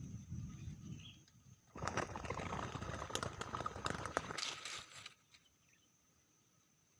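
Spotted dove flapping its wings hard for about three seconds, a loud crackly rustle with sharp clicks that stops suddenly. Typical of a wild dove struggling in a snare. It follows a low rumble at the start.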